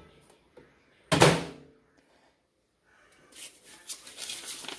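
A single sharp clunk with a short ringing decay about a second in, then a crinkling rustle of handled material near the end.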